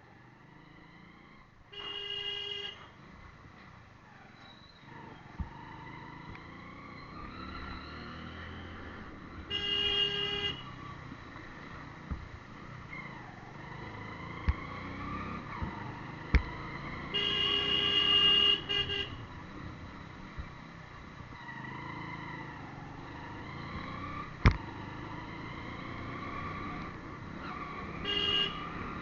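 A vehicle horn honks four times, the third held for nearly two seconds, over a motorcycle engine whose pitch keeps rising and falling with the throttle. A few sharp clicks come in between.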